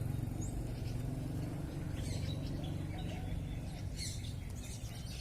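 Scattered faint bird chirps over a steady low drone.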